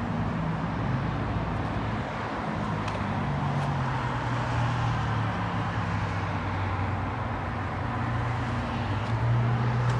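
Motor vehicle engine running: a steady low hum with road noise, growing a little stronger about three seconds in.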